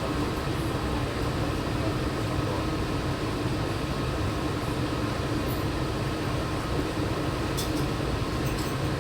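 Steady hum and rumble inside a Walt Disney World monorail car, its equipment and ventilation running, with a couple of faint clicks near the end.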